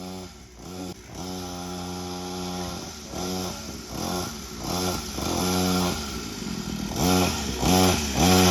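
Small 50cc dirt bike engine revving up and down over and over as the throttle is opened and let off in short blips, held open a little longer about a second in.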